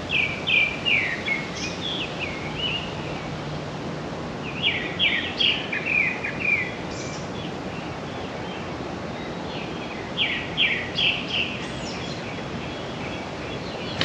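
A songbird singing in the trees, species unknown: three phrases of quick, downward-slurred notes, one at the start, one about five seconds in and one about ten seconds in, over a steady background hiss.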